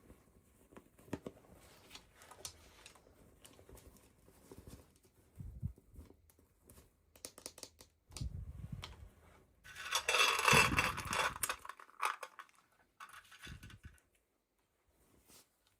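Toy packaging being handled and opened: scattered taps and crinkles, with a louder stretch of rustling and tearing about ten seconds in.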